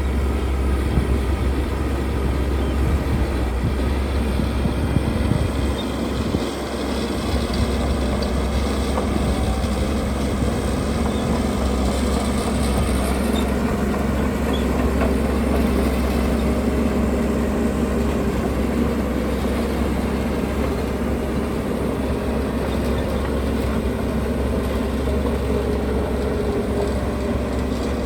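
Diesel engine of heavy earthmoving machinery running steadily with a deep, low rumble, dipping briefly about six seconds in.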